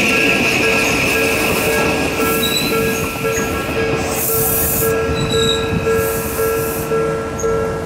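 Odakyu 5000-series electric train running past at speed, a continuous rush and rumble of wheels on rail. Over it a level crossing's warning bell rings a steady two-tone ding about twice a second, and it stands out more as the train noise thins near the end.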